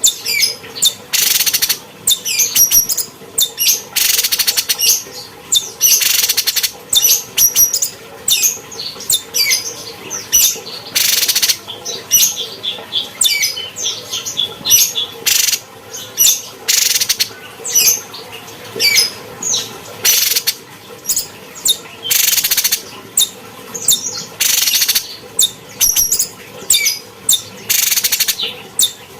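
Cucak cungkok bird singing a fast, unbroken string of short whistled chirps and rising and falling sweeps, broken every second or two by harsh rasping hiss-like notes.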